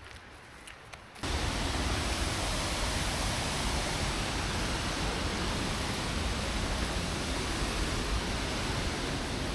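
Steady rushing of a waterfall close to the microphone. It cuts in abruptly about a second in, after a faint stretch with a few light clicks.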